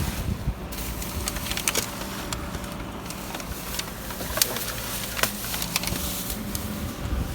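Rummaging through dumpster contents: scattered sharp clicks and knocks as items are handled and moved, over a steady low hum.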